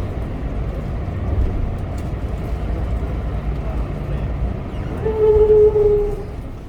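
Steady low vehicle rumble, with a loud steady horn-like tone lasting about a second near the end.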